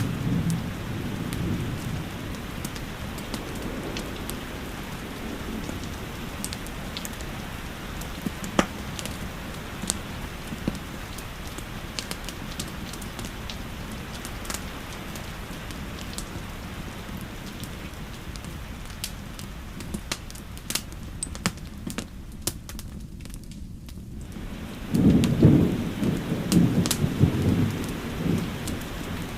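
Steady rainfall with scattered sharp crackles and pops from a wood fire. Low thunder rumbles near the start and again a few seconds before the end.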